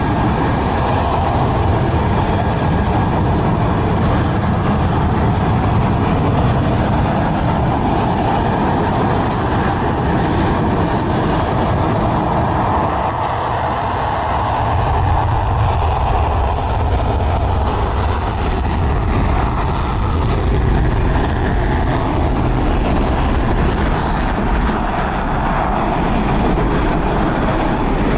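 Dassault Rafale fighter jets' twin Safran M88 turbofan engines running: a loud, steady, rumbling jet noise that shifts in tone about halfway through.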